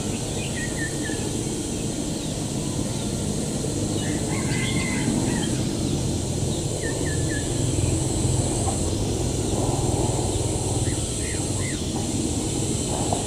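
Small birds giving short, high chirps in quick runs of two or three notes, a few times, over a steady low background rumble and an even high hiss.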